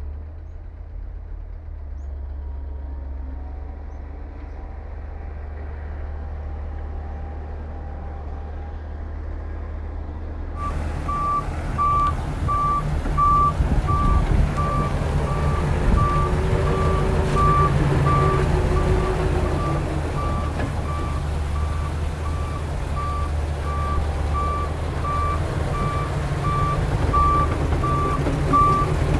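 Low diesel engine rumble of heavy machinery. About ten seconds in, the sound cuts to a louder diesel engine with a reversing alarm beeping steadily about once a second, the warning of a heavy vehicle backing up.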